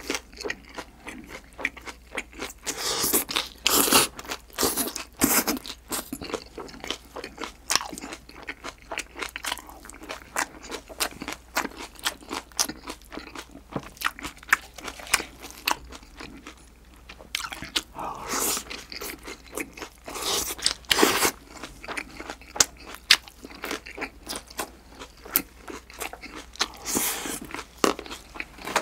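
Close-miked eating sounds: a person chewing mouthfuls of spicy raw green onion and green chili salad with thin pork belly slices. The bites give irregular wet crunches, with louder bursts of crunching several times.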